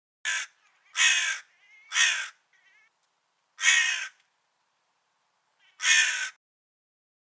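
Crow cawing: five caws, the first one short, spread unevenly over about six seconds, with longer gaps before the fourth and the fifth.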